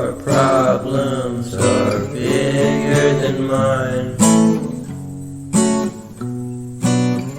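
Song with acoustic guitar strumming and a voice singing. After about four seconds the voice stops and the guitar plays alone, a strong strummed chord roughly every second and a half.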